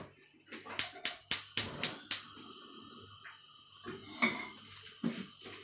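Kitchen noises: a quick run of sharp clicks and knocks, about four a second, then a steady hiss with a few more knocks.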